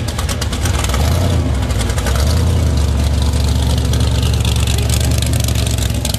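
Hot-rod engine of a 1932 Ford Coupe running loudly through open exhaust headers, a steady rapid exhaust beat with a shift in engine note about a second in.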